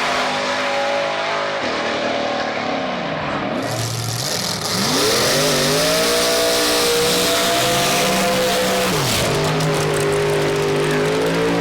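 Drag-racing car engine at full throttle, its note falling, then climbing and holding high, with a brief dip and recovery near the end.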